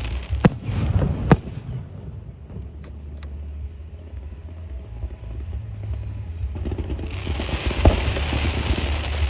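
Firecrackers and fireworks going off: two sharp bangs near the start, then a lull, then dense crackling starting up again about seven seconds in with another bang, over a steady low rumble.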